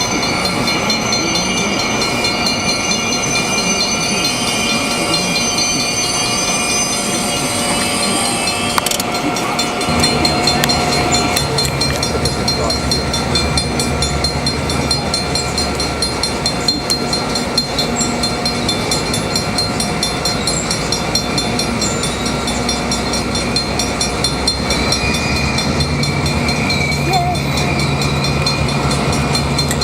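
Freight train rolling over a grade crossing, with wheel and rail clatter. About ten seconds in, the low steady running of EMD GP38 diesel locomotives comes in and carries on.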